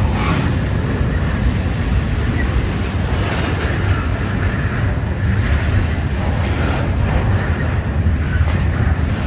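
CPKC freight train's intermodal cars rolling past, a steady low rumble of steel wheels on the rails with a few faint higher clacks or squeals.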